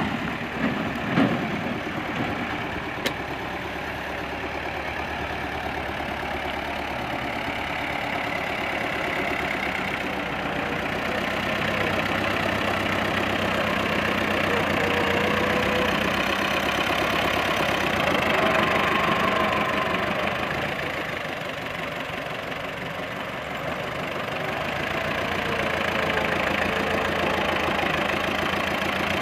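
Tractor diesel engine running steadily, getting a little louder and then easing back partway through. A few sharp clatters come in the first couple of seconds.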